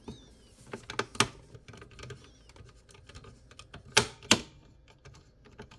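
Sharp plastic-and-metal clicks and small taps as a tool is wiggled against parts inside a Dell OptiPlex 9020 small-form-factor computer case, trying to catch hold. There are scattered light ticks, one louder click about a second in, and two loud clicks close together about four seconds in.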